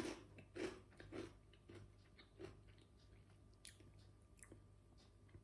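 Quiet chewing of crunchy thick-cut San Carlo 1936 potato chips: soft crunches about every half second that die away after about two and a half seconds, followed by a couple of faint clicks.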